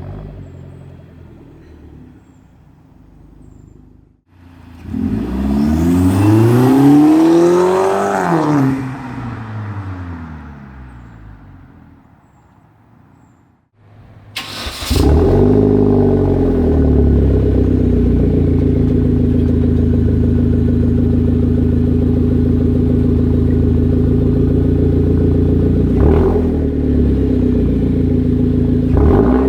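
Hyundai Genesis Coupe 2.0T's turbocharged four-cylinder engine and exhaust. It revs up and falls back. Then, after a sharp click about halfway, it runs at a steady, loud note to the end, with one small blip near the end.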